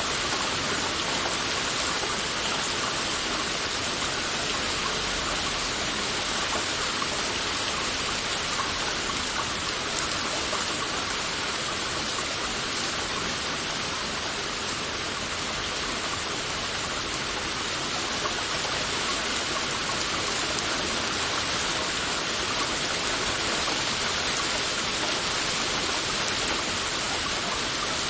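Heavy rain falling steadily: a dense, even hiss of drops with no thunder or single louder strikes.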